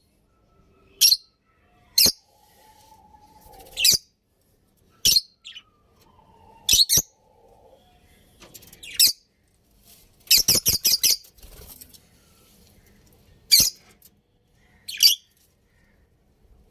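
Budgerigars chirping: short, sharp high-pitched calls every second or two, with a quick run of about six calls around ten seconds in.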